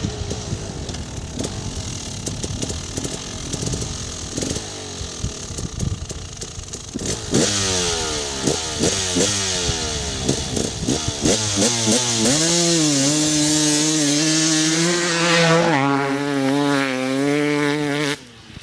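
Two-stroke dirt bike engine running rough and low at first, then accelerating hard: its pitch climbs and drops back again and again as it shifts up through the gears, then holds a steady high-revving note, dips once briefly, and cuts off suddenly near the end.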